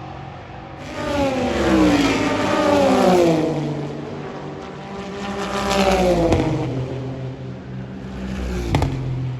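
Two race cars passing one after another, each engine note falling in pitch as it goes by, with a short sharp crack near the end.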